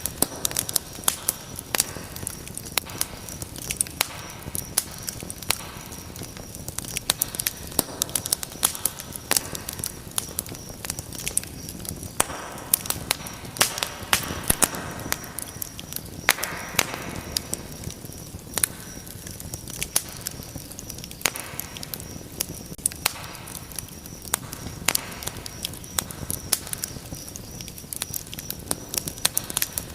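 Wood fire in a fireplace crackling, with frequent sharp pops and snaps over a steady hiss of flame, and a few louder surges of hissing now and then.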